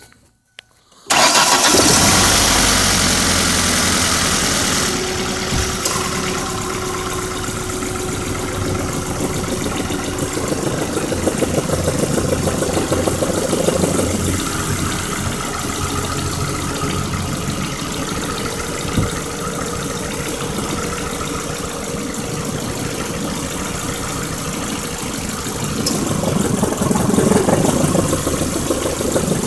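2003 Ford Focus ZTW's 2.0-litre four-cylinder engine starting about a second in, running louder for a few seconds and then settling to a steady idle, with a slight rise in level near the end. The owner asks whether the engine has a rod knock.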